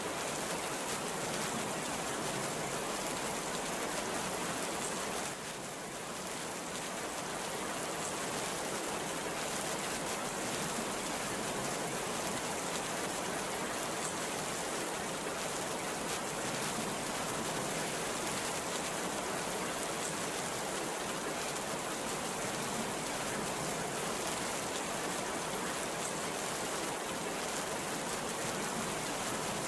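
Heavy rain pouring steadily, a dense even hiss of countless drops, with a brief slight drop in level about five seconds in.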